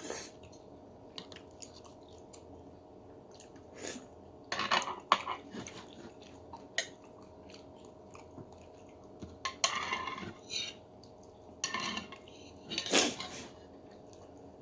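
Eating ramen: utensils clinking against the bowl and chewing, in several short bursts with quiet pauses between.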